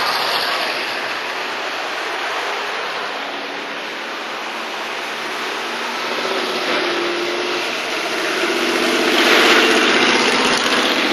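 Classic car engines running as parade cars drive by on a hill, with a louder pass about nine seconds in.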